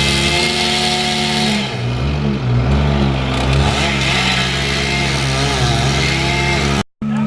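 Engine of tree-removal equipment running and revving, its pitch dipping and wavering from about one and a half seconds in.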